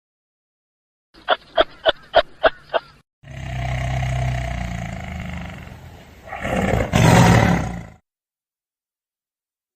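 Large wild animal roaring and grunting in separate edited clips: a run of six short, rhythmic grunts, then a long roar that fades, then a louder roar.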